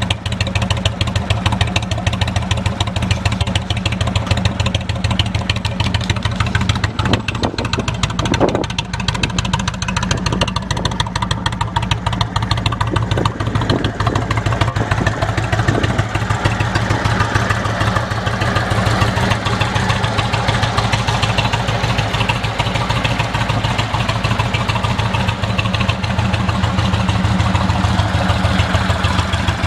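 Indian motorcycle's V-twin engine idling steadily through Freedom Performance Shark Tail slip-on mufflers on stock headers.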